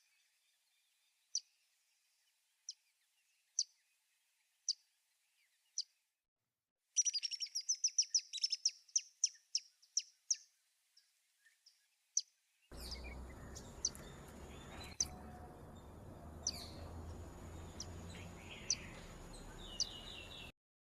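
Woodpecker calling: sharp, high single call notes about once a second, then a rapid rattling series of high notes that slows and fades. After that, more scattered high call notes over a steady background hiss.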